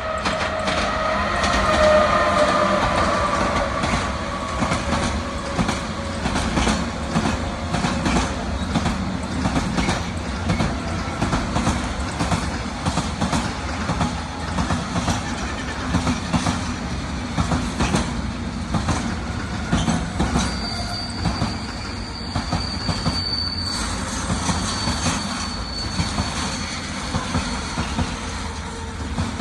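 A container freight train behind a Pesa Gamma electric locomotive rolling past, its wheels clacking over rail joints again and again. The opening seconds carry a whine that falls slightly in pitch. A thin, high wheel squeal comes in about two-thirds of the way through, twice, for a few seconds each time.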